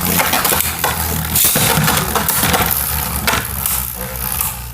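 Two Beyblade Burst spinning tops whirring in a plastic stadium, with a rapid run of sharp clacks as they hit each other and the stadium wall.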